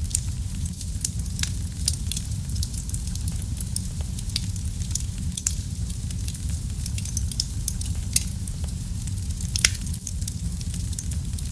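Wood fire in a fireplace crackling: a steady low rumble of burning with a constant scatter of small sharp pops, and a few louder snaps through it.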